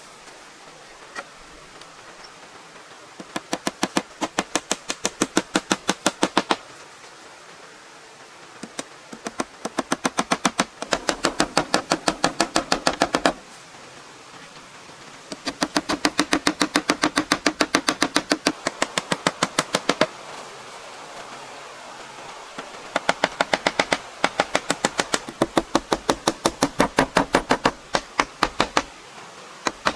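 Rapid, even knocking at about seven strikes a second, in four bursts of three to five seconds with short pauses between.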